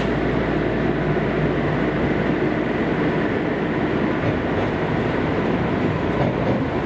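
Interior running noise of a Kobe City Subway 5000 series linear-motor train travelling through the tunnel: a steady rumble of wheels on rail and motor hum, heard from inside the car.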